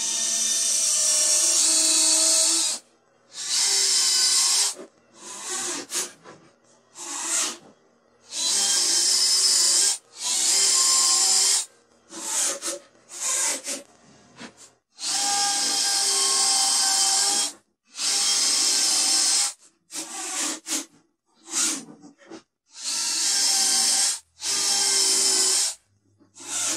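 Cordless drill/driver running in about a dozen short bursts of one to three seconds each, with a steady motor whine, drilling pilot holes and driving pocket-hole screws into a wooden drawer front.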